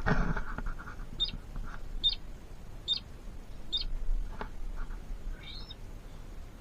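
A small bird calling: four short, high chirps about 0.8 s apart, then a longer wavering call near the end. A loud handling bump at the start and a sharp click just past the middle.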